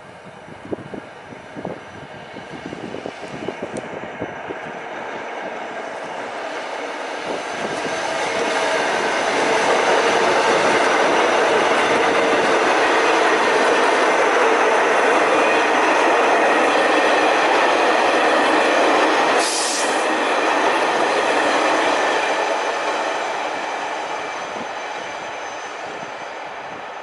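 New York City subway train passing: wheel clacks over the rail joints as it approaches, building to a loud steady rumble that fades away as it goes by. A brief sharp hiss cuts in about two-thirds of the way through.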